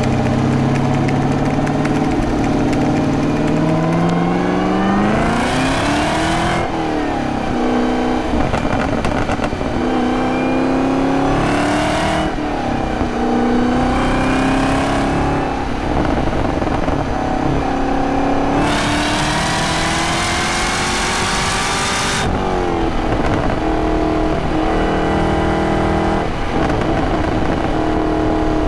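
Supercharged 6.2-litre V8 of a 2023 Camaro ZL1 pulling hard. The revs climb and then drop back about three times, with the exhaust loudest at the top of each pull, and the car runs at steadier revs near the end.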